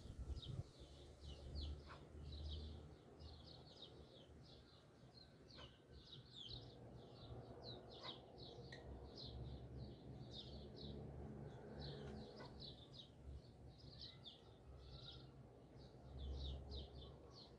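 Faint, continuous chirping of small birds, many quick chirps a second, over a low rumble.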